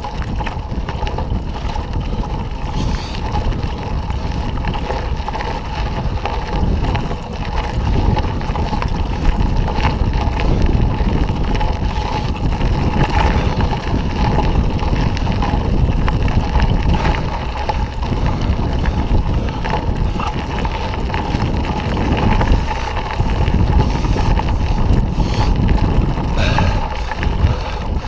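Mountain bike rolling over a dirt trail: wind buffeting the microphone over a steady low rumble from the tyres, with a faint steady hum and frequent small rattles and knocks from bumps.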